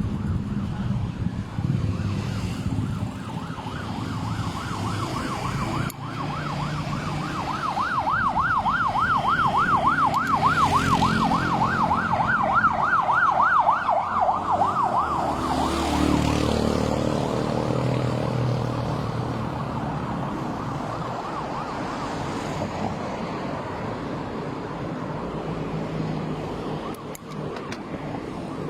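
Emergency vehicle siren in a fast yelp, its pitch rising and falling about three times a second. It grows louder toward the middle and then fades away, over steady road traffic.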